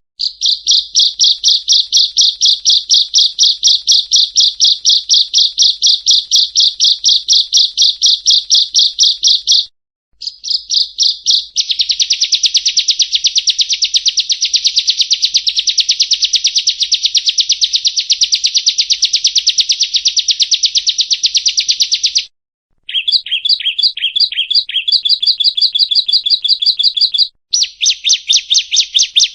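Bar-winged prinia (ciblek) song: long runs of rapid, sharply repeated high chirping notes. The song breaks off briefly after about ten seconds, again about three quarters of the way through with a short, differently patterned phrase, and once more near the end.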